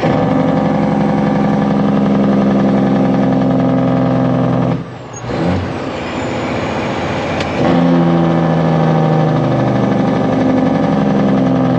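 Kenworth truck's Detroit Diesel engine pulling under load. The engine note drops away for a couple of seconds about five seconds in, then comes back strongly, its pitch slowly falling toward the end.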